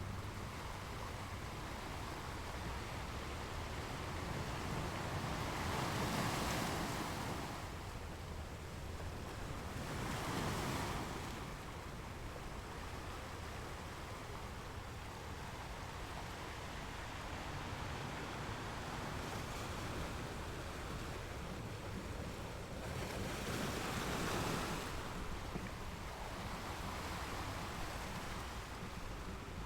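Sea waves breaking on a shore over a steady wash of surf, with three louder waves about six, ten and twenty-four seconds in.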